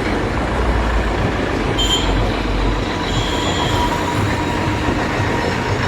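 Old tractor engine, some 45 years old, running steadily just after starting, with a loud, even low rumble.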